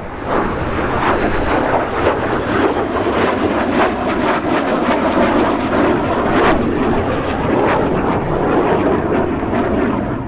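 Jet noise from a Lim-5 (Polish-built MiG-17F) and its Klimov VK-1F turbojet during a display flypast: a loud, steady rushing sound with many sharp crackles through the middle.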